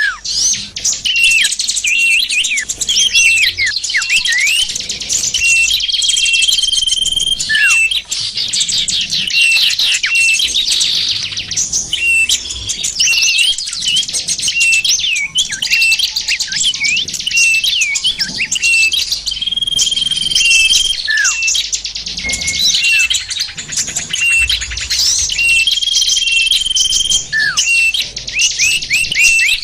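A dense chorus of many small songbirds chirping and calling at once, a lure recording for attracting small wild birds. Quick chirps and falling swoops overlap continuously, and a short held whistle returns about every six or seven seconds, as in a looped recording.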